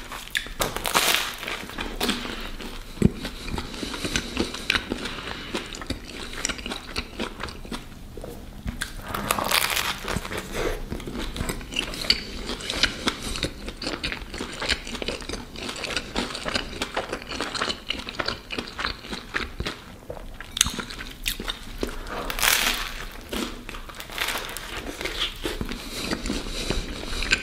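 A person chewing a bratwurst sandwich in a crusty Kaiser roll close to the microphone: irregular crackling and mouth sounds, with a few louder crunches of the bread crust, about a second in, near the middle and late on.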